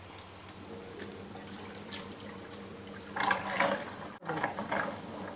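Water splashing and sloshing in a washing machine tub, in two short bursts about three and four seconds in, over a faint steady hum.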